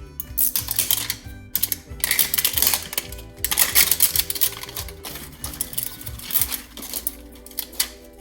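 Toy packaging being opened by hand, crinkling and rustling in irregular bursts as a layer of wrapping is peeled away, over background music with a steady beat.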